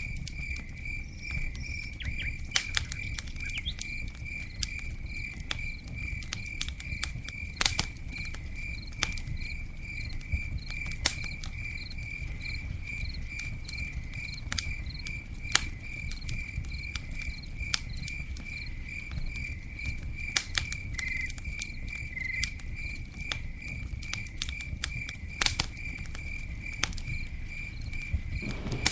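Campfire crackling, with scattered sharp pops, and a cricket chirping steadily in an even rhythm of about two to three chirps a second.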